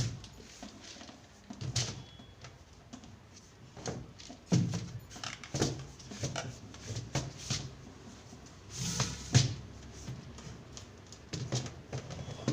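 Irregular light knocks, clatter and rustling of food containers and packets being handled and set down on refrigerator shelves, the loudest bump about nine seconds in.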